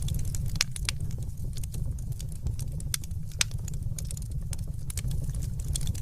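Wood fire crackling, with irregular sharp pops and snaps over a steady low rumble; one louder pop about halfway through.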